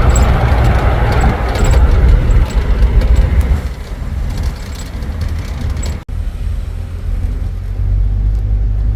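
Steady low rumble of a moving tuk-tuk's engine and road noise, heard from on board, with a louder hiss of passing air and traffic for the first few seconds. The sound drops out for an instant about six seconds in, then the rumble carries on.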